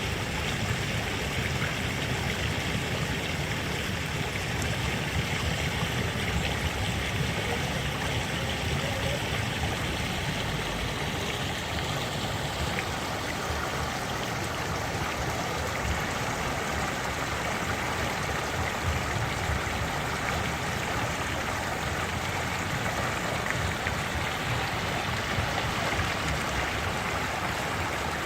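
Big stream rushing and gurgling steadily, water flowing fast over rocks.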